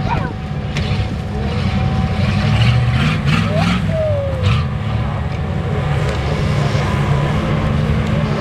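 A mud-bog truck's engine running hard under load, revving up and back down around the middle, with some short crackles in the same stretch.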